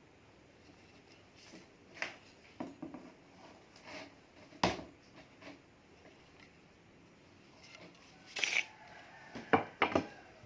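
Steel golok (machete) chopping into hard kayu ruyung palm wood: several sharp strikes at irregular intervals, the loudest about halfway through and a quick cluster near the end.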